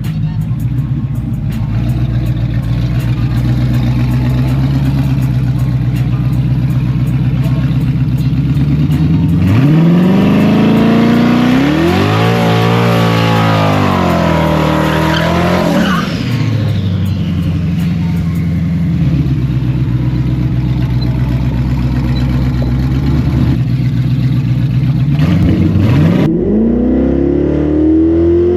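Turbocharged V8 drag car idling steadily, then revved up and down for several seconds, settling back to idle, and revving up again near the end.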